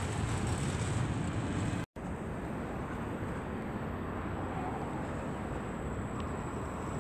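Wheels of an intermodal freight train's trailer-carrying wagons rumbling along the rails as the train passes, cut off abruptly about two seconds in. A steady, quieter background noise follows.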